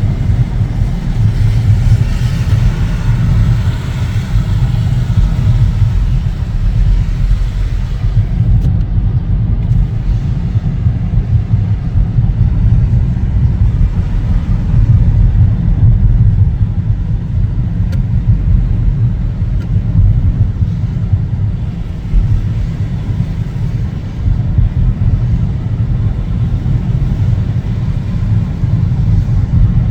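Car driving on snowy roads: a steady low rumble of road and engine noise, with a little more tyre hiss a few seconds in.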